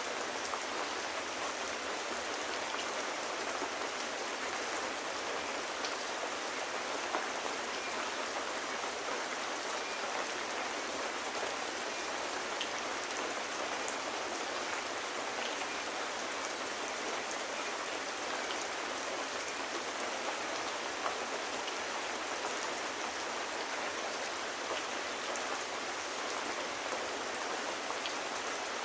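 Steady, even rain with occasional faint ticks of drops hitting a surface.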